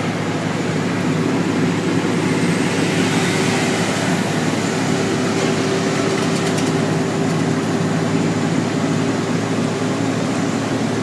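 Garbage truck's diesel engine droning steadily from inside the cab, with a constant low hum and a steady higher whine, as the truck climbs a long grade under load.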